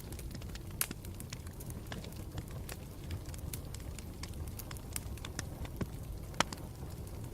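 Campfire burning with a steady low rumble and irregular sharp crackles and pops, one louder pop near the end.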